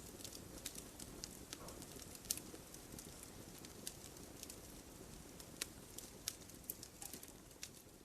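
Firewood burning in a campfire: sharp crackles and pops of the logs at irregular intervals over a low, steady rush of the flames.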